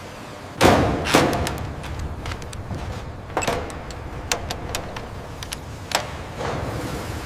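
Metal knocks and clicks of body panels being fitted onto a train engine's frame: two heavy knocks about half a second and a second in, then a scatter of lighter sharp clicks and knocks.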